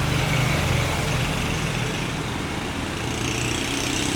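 Motorbike engine running at a steady pitch, with road noise.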